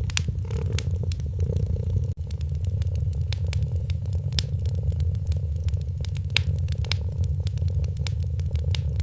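Wood fire crackling with scattered sharp pops over a cat's steady low purr that swells and eases about once a second. The sound drops out for an instant about two seconds in.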